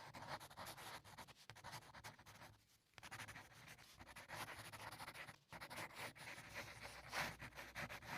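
Very faint, irregular scratching of a drawing tool on paper, close to silence.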